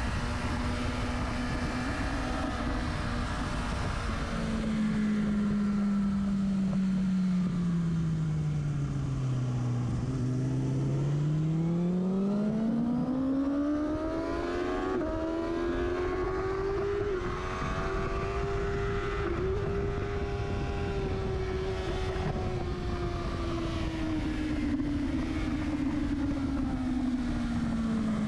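Sports motorcycle engine heard close to its silencer, its note falling steadily to a low ebb about ten seconds in, then climbing smoothly under acceleration, holding high, and easing off near the end. A steady rush of wind noise runs under it.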